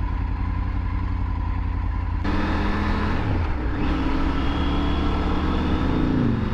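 Triumph Tiger 900 GT's three-cylinder engine running on the move, with wind and road noise. About two seconds in the wind and road noise grows louder, and around three seconds the engine note drops and climbs again before settling, then falls away near the end.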